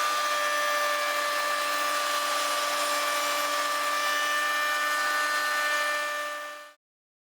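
Table-mounted router running at high speed with a steady high whine over a hiss, routing a dovetail slot. It cuts off suddenly near the end.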